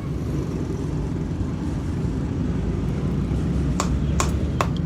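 A steady low machine rumble, then near the end a run of sharp hammer blows on metal, about two or three a second.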